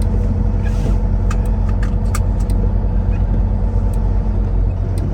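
Semi truck's engine droning steadily while driving, heard from inside the cab, with a few light clicks and rattles scattered through it.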